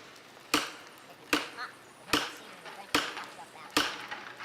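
Heavy blows struck on wood at a steady pace, about one every 0.8 seconds, five in all, each ringing briefly.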